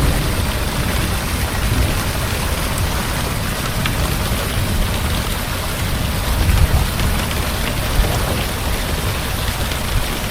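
Heavy rain falling steadily, with a low rumble of distant thunder under it.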